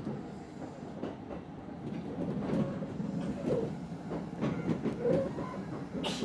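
Kintetsu Ikoma Line commuter train running, heard from inside the cab: a steady rumble with wheels clacking over rail joints. A short sharp hiss comes near the end.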